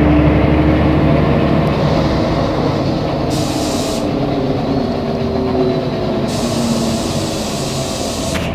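Mercedes-Benz O500MA articulated bus heard on board while under way: engine and drivetrain running with whining tones that drift slowly in pitch. A high hiss comes in twice, and the sound eases off slowly toward the end.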